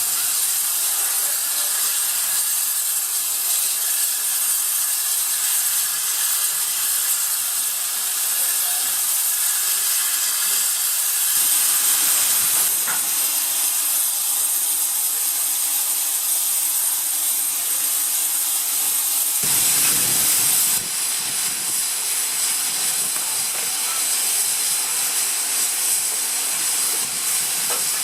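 Steam locomotive letting off steam: a loud, steady hiss. A fuller blast of steam joins in about two-thirds of the way through and cuts off sharply a second and a half later.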